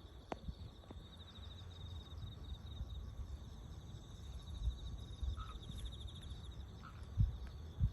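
An insect trilling steadily in rapid, even pulses, high-pitched, over a low rumble of wind or handling noise with a few thumps near the end.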